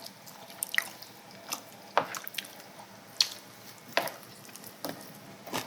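Eating sounds over a bowl of chicken soup: a string of short, sharp clicks and small wet smacks, roughly one a second, from spoons and chewing.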